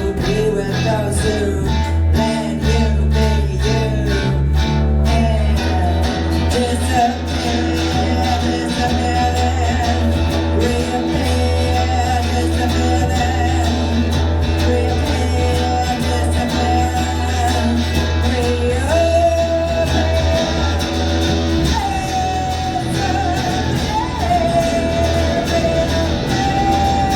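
Live band music with singing and electric guitar, over a steady bass.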